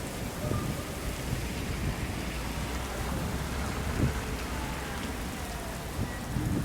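Heavy rain falling steadily during a severe thunderstorm, over a low rumble of thunder. A few sharp knocks stand out, the loudest about four seconds in.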